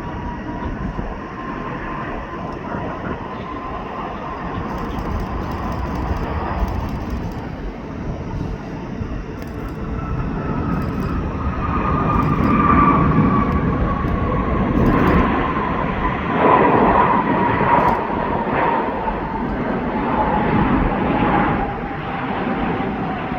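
Jet airliner's engines passing by, a steady rush with a high whine that slowly falls in pitch, growing louder through the second half.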